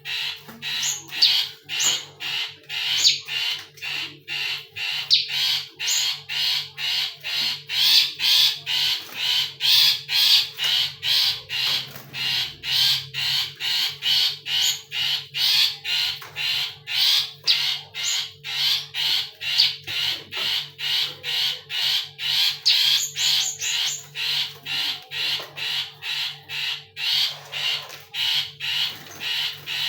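Caged bird calling without pause: short harsh notes repeated evenly, about two to three a second.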